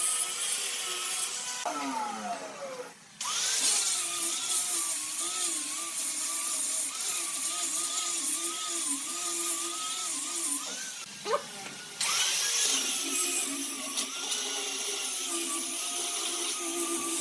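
Electric power tool motor running with its pitch wavering as it works under load. About two seconds in it winds down and stops for a moment, then starts up again, with another brief stop-and-restart a little past halfway.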